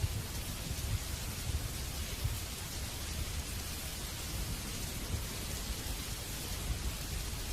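Steady heavy rain, an even hiss of falling water with a low rumble underneath.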